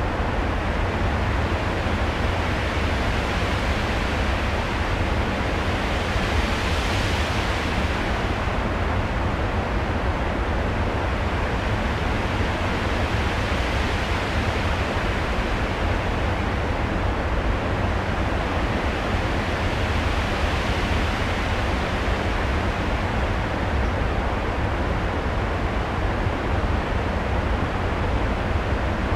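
Storm-like noise soundscape played over the theatre sound system: a steady rushing hiss over a deep rumble. It swells brighter like a gust or breaking wave about seven seconds in, and more gently twice later.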